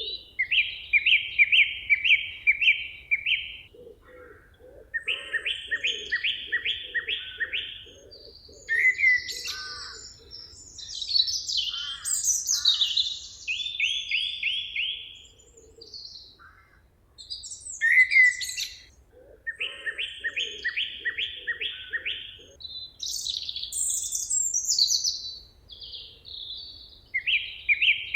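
Songbirds singing. One bird repeats a phrase of about five or six evenly spaced notes lasting two to three seconds, again every few seconds, while other birds add higher chirps and quick rising and falling notes between the phrases. A lower series of pulsing notes sounds beneath the song in places.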